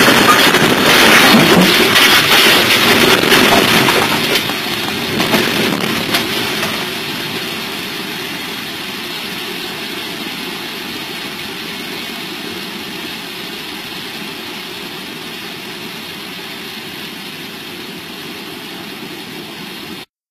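Loud rattling and rumbling in a train's driver cab, with many sharp knocks over the first few seconds. It dies down after about six seconds into a steady, quieter noise that cuts off suddenly near the end.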